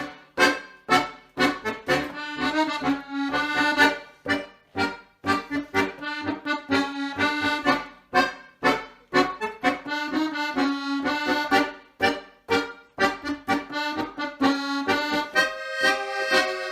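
Accordion music: a lively tune played in short, sharp chords about twice a second, broken now and then by brief pauses.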